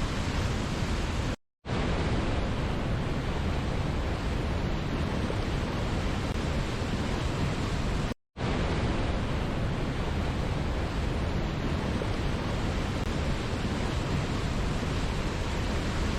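Waterfall's steady rushing water, a dense even noise that is heaviest in the low end. The sound cuts out completely for a split second twice, about a second and a half in and again about eight seconds in.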